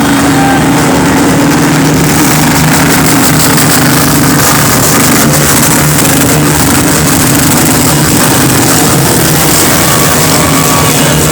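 Many motorcycle engines running together in a loud, steady din.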